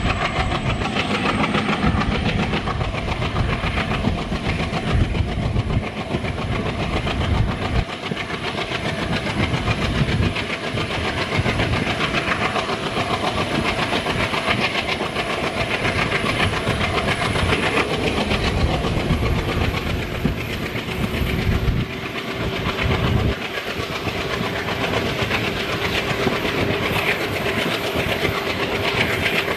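Express passenger train running at speed, heard from an open coach doorway: a continuous rumble and clatter of steel wheels over the rails.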